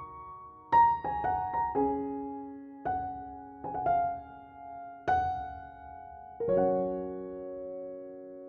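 Background piano music: slow struck notes and chords, each left to ring and fade.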